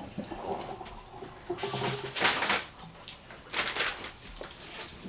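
Cooking prep in a kitchen: two short, noisy swishes, about two seconds in and again about three and a half seconds in, over a low background.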